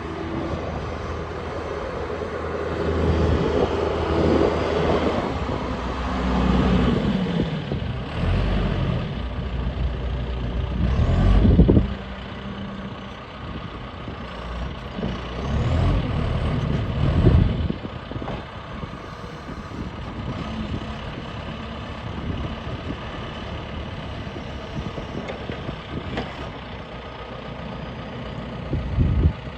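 John Deere 310J backhoe loader's diesel engine running, its note rising and falling as it is revved and worked. There are loud swells about a third of the way in, again a little past halfway, and briefly near the end.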